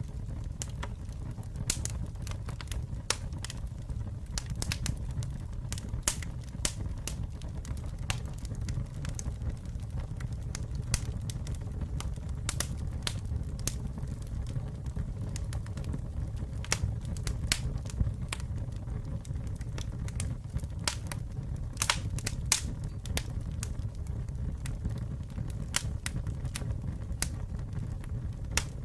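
Campfire burning with a steady low rumble and many sharp, irregular crackles and pops from the burning wood.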